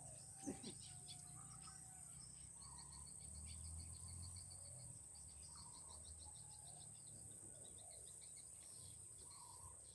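Faint outdoor ambience: a steady high-pitched insect drone, with a rapid, even run of faint bird-like chirps through the middle.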